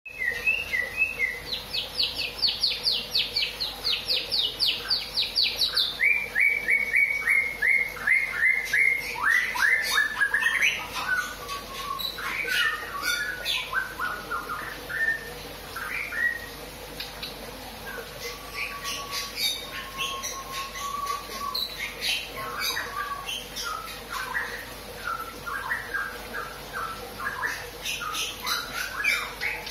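A bird singing in fast runs of repeated chirps and trills, high and loud for the first several seconds, then softer, lower, varied chirps and whistles from about twelve seconds in, getting busier again near the end. A faint steady hum runs underneath.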